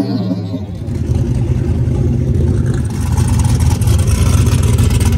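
A drag race car's engine running close by. It comes in loud and steady about a second in as the music cuts off, and grows louder again near the third second.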